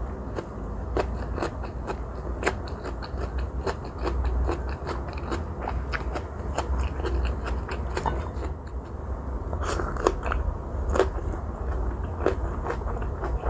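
Close-up chewing of a fresh Vietnamese spring roll: rice paper with crisp cucumber, carrot and lettuce, heard as a dense, irregular run of small wet crunches and clicks. A steady low hum lies underneath.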